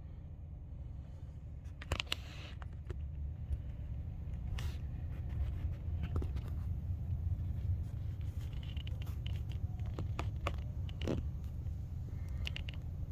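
Steady low rumble of a vehicle, as from inside a running truck, with scattered light clicks and knocks.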